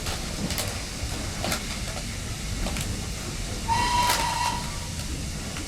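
Steam locomotive whistle giving one short blast, about a second long, about two-thirds of the way in, over the steady hiss and rumble of the train, with a few knocks before it.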